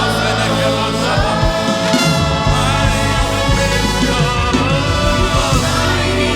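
Live praise and worship music: a band playing with voices singing over a steady bass line.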